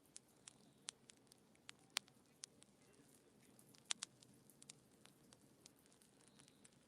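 Wood fire crackling faintly in a fireplace: irregular sharp pops and snaps over a quiet steady hiss, the loudest pops about two seconds in and a close pair about four seconds in.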